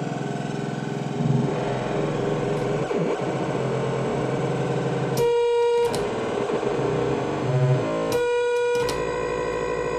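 Modular synthesizer patch playing a dense, gritty, distorted tone. Two short, bright, buzzy notes stand out, about five and eight seconds in.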